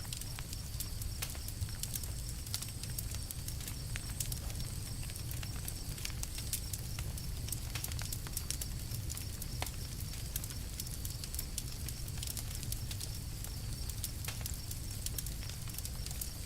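Campfire crackling, with frequent irregular snaps and pops over a low steady rumble.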